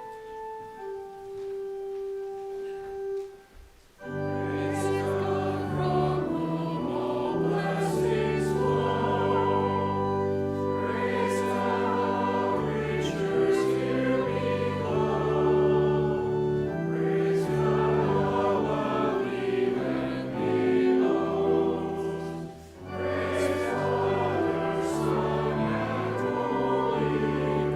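Organ playing a single melodic line, then after a short pause about four seconds in, full organ chords with a group of voices singing. The music breaks off briefly near the end and resumes.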